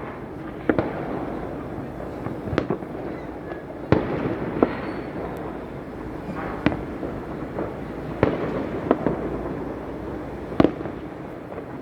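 Fireworks going off across a city: scattered sharp bangs every second or two over a constant background of more distant bursts.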